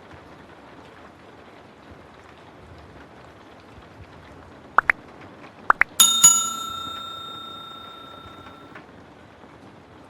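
Steady rain hiss, then a few short high chirps, and a small bell struck twice about six seconds in that rings out for nearly three seconds before stopping.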